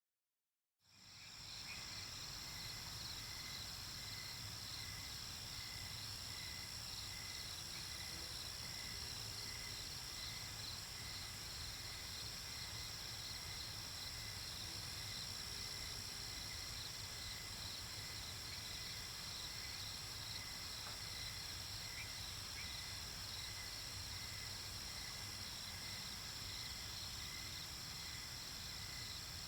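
Night-time nature ambience: a steady chorus of insects, crickets among them, chirping with a fast, even pulse. It fades in about a second in, after a moment of silence.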